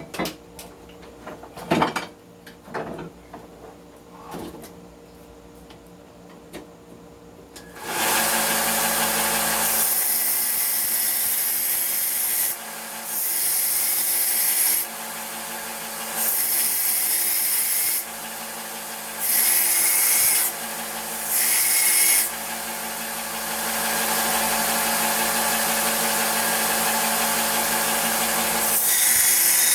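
A few knocks of handling, then a belt sander starts about eight seconds in and runs steadily, growing louder and quieter in steps as the old steel meat cleaver's chipped edge is pressed against the belt and lifted off, grinding a new bevel.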